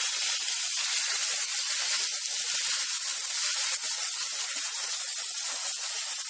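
Onion paste sizzling steadily in hot oil in a kadhai as it is stirred with a spatula.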